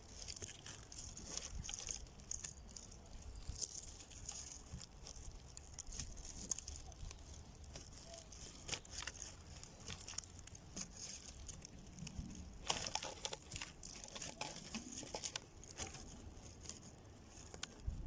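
Dry leaves, grasses and twigs rustling and crackling in irregular small clicks as they are woven under and over the strings of a twig frame.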